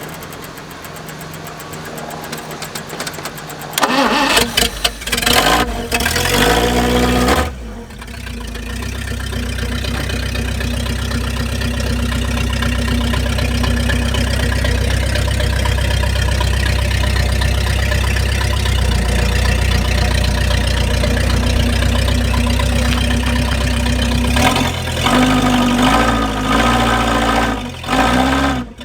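1953 Packard straight-eight engine starting from cold after sitting for years: it catches about four seconds in with a few loud revs, then settles into a steady idle. Near the end it revs again, the pitch rising and falling.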